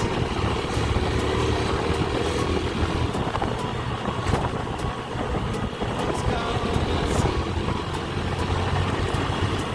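Small motorcycle engine running steadily while riding, with road and wind noise.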